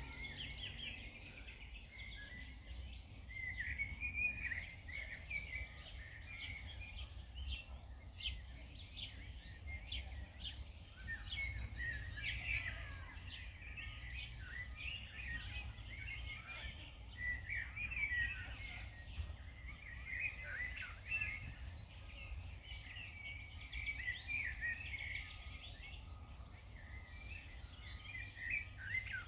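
Several small birds singing and chirping at once, a dense, continuous chatter of short high notes, over a steady low rumble.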